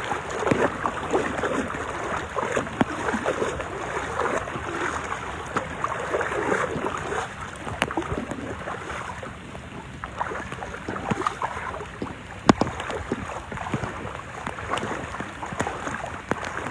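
Floodwater sloshing and splashing irregularly as people wade through it, with a few sharp knocks, the loudest about twelve seconds in.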